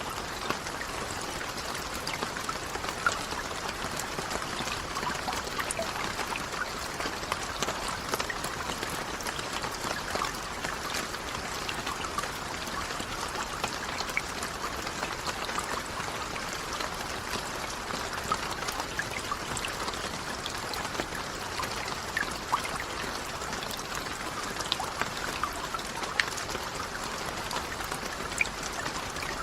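Steady rainfall: an even hiss of rain with many individual drops landing as small sharp ticks throughout.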